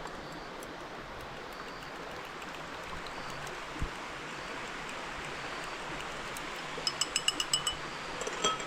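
Steady rush of flowing stream water. Near the end comes a quick run of about eight light, ringing clinks: an egg being beaten in a bowl.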